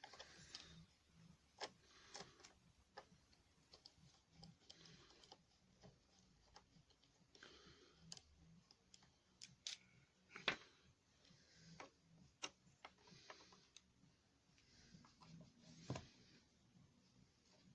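Faint, irregular clicks, taps and short scrapes of hand tools working at the screws of a hedge trimmer's gearbox bottom plate, with a sharper knock about ten seconds in.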